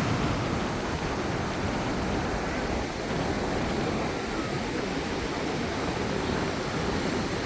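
Small waves breaking and washing up a beach: a steady rushing noise.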